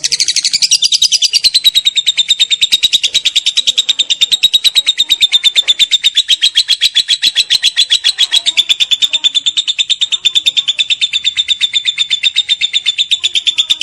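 Lovebird's long 'ngekek' call: a fast, unbroken chatter of high, rattling notes, dropping slightly in pitch in the first second or so, then held steady.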